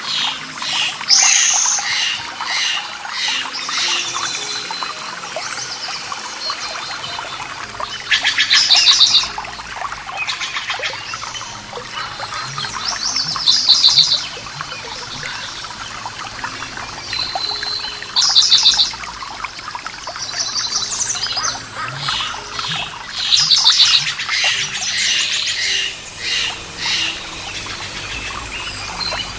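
Songbirds singing and chirping over steadily running water. A loud rapid trill lasting about a second recurs roughly every five seconds among the other calls.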